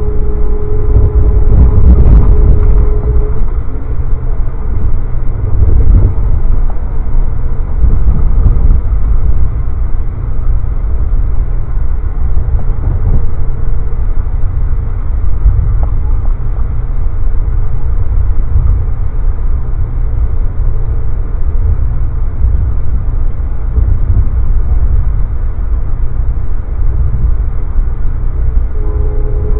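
Steady loud rumble of a passenger train running at speed, heard from inside the coach. A faint steady hum over it drops away about three seconds in and comes back near the end.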